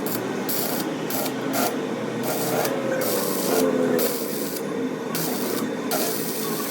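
Metalworking noise on an axle housing: a continuous rasping, with a high hiss that cuts in and out irregularly every fraction of a second.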